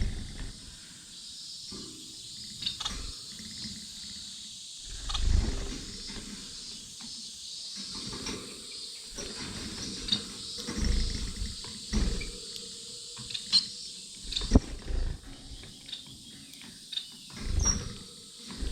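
Aviary finches (Gouldian finches, society finches and canaries) feeding, with steady high chirping and twittering and scattered short clicks. Several louder low thumps break in now and then, the loudest a sharp click about two-thirds of the way through.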